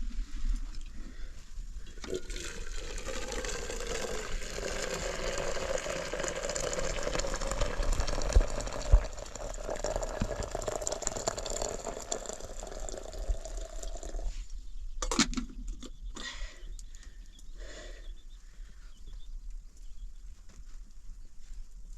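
Liquid poured into a container for about twelve seconds, its pitch rising slowly as the vessel fills. It stops suddenly, followed by a few knocks.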